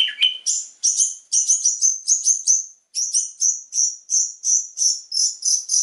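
Long-tailed shrike (cendet) song: a fast, even series of short, sharp high notes, about four or five a second, stepping up in pitch about half a second in and breaking off briefly near the middle.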